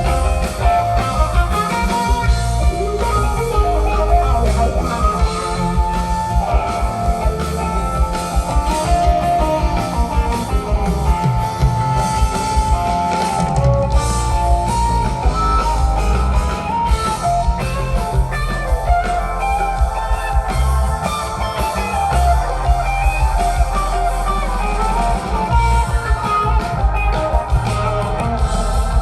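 Rock band jamming live: electric guitar playing over drum kit and bass, with no vocals.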